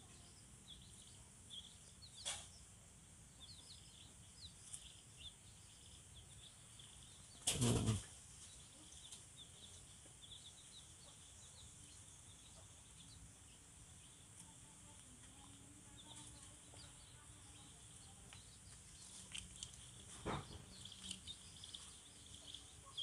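Small birds chirping in the background, many short high chirps. A brief loud noise comes about seven and a half seconds in, with fainter ones near two and twenty seconds.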